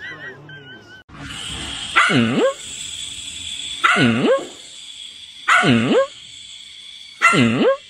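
A puppy barking four times, about every 1.7 seconds. Each bark is a drawn-out yelp that dips and then rises in pitch, over a steady hiss.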